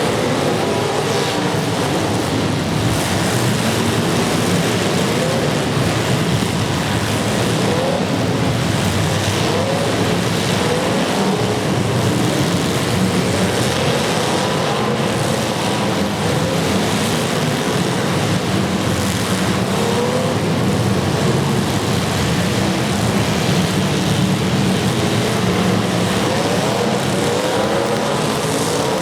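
Several demolition derby car engines running together at high revs, with engines revving up again and again over a steady loud din.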